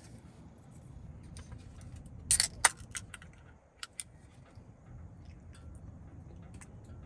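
Scattered light clicks and clinks of small hard objects being handled, with a louder clatter about two and a half seconds in, over a low steady rumble.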